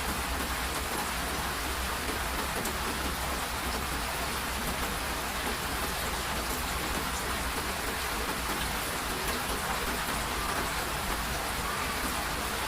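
Steady rain falling and pattering on surfaces, an even hiss with occasional faint drop ticks.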